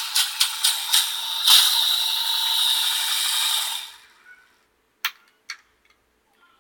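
Model train running on the layout track: the wheels click over the rail joints about four times a second over a steady running hiss, which grows louder and then fades out about four seconds in. Two sharp clicks follow.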